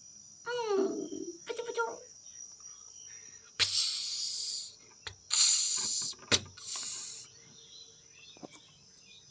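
Cat meowing twice in the first two seconds, each meow falling in pitch, followed by a shorter cry. Three short bursts of hiss-like noise follow in the middle, over a steady high-pitched chirring that is typical of crickets.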